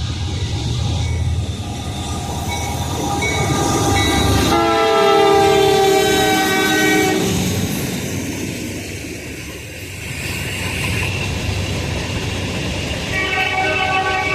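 Norfolk Southern locomotive sounding its multi-note air horn over the steady rumble of the passing train. A loud horn blast comes about four and a half to seven seconds in, with another starting near the end.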